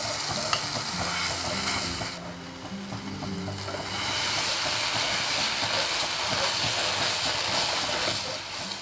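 Khoa (mawa) sizzling and scraping in a nonstick pan as it is roasted and stirred with a plastic spatula. The hiss dips about two seconds in and is stronger from about four seconds on, over quiet background music.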